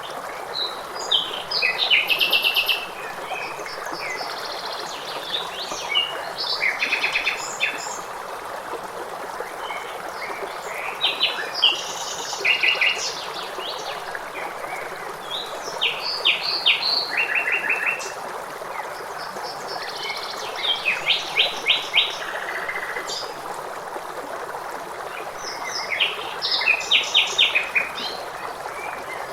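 Songbirds singing short phrases every few seconds, many made of quick runs of repeated notes, over the steady rush of flowing water.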